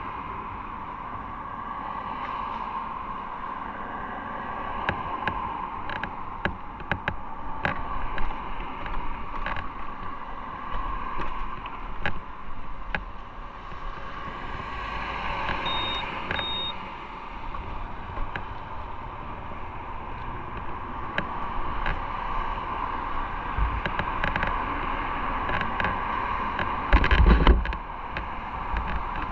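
Motorcycle riding along the road: steady running and wind noise with scattered clicks, two short high beeps about halfway, and a loud low thump near the end.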